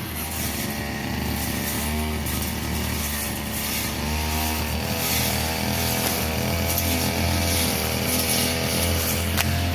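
Brush cutter engine running steadily while cutting grass, its pitch wavering slightly under load.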